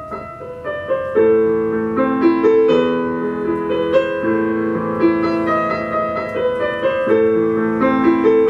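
Piano being played: a few single notes, then from about a second in a run of chords, several notes held together and changing every half second or so.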